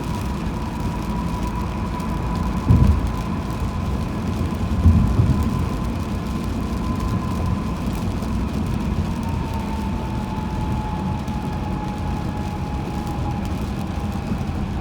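Road noise of a car driving on the highway: a steady low rumble with a thin, steady whine that drops slightly in pitch after about nine seconds, and two short thumps about three and five seconds in.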